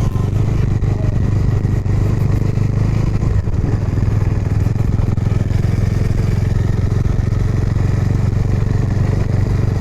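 Motorcycle engine running steadily at an even pitch, with road and wind noise.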